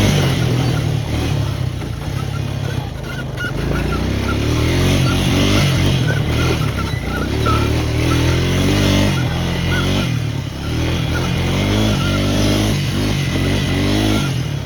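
A four-wheeler's engine running while it is ridden, rising in pitch and dropping back several times as the throttle is worked.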